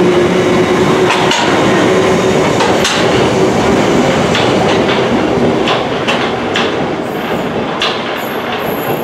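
London Underground 1972 Stock train running on the tracks, its wheels clicking irregularly over rail joints, the running noise dying away over the second half as the train draws off.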